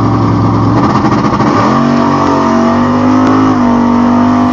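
Naturally aspirated 533-cubic-inch big-block V8 of a 1971 Mach 1 Mustang, loud and steady on the line, then launching about one and a half seconds in: the pitch sweeps up and stays high under full throttle as the car accelerates off the start.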